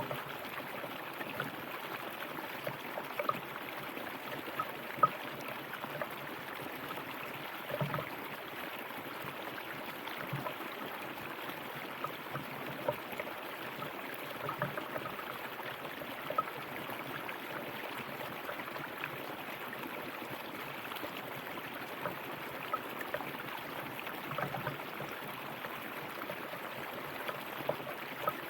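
River water flowing steadily over stones, a continuous rushing wash dotted with small splashes and gurgles.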